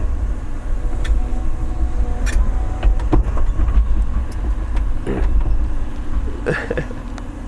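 Large excavator's diesel engine running with a deep, steady rumble, with scattered clanks and knocks as the machine digs a channel.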